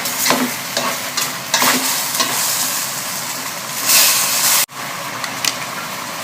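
Chicken pieces sizzling in a cooking pot as they brown in their own juice with no water added, the juice cooking off. A few short scrapes sound over the steady sizzle, and it swells louder about four seconds in before a sudden brief break.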